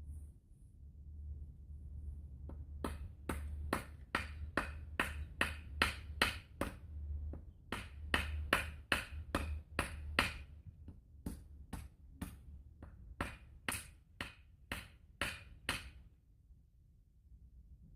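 A rapid series of sharp striking blows, about two to three a second, with two brief pauses, stopping a couple of seconds before the end.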